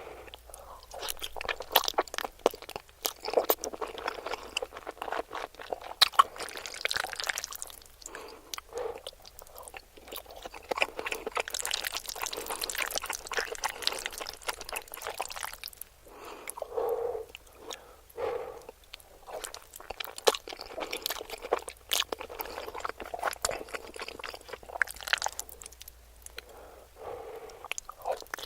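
A person chewing and crunching food, with many short crackling clicks and wet mouth sounds throughout.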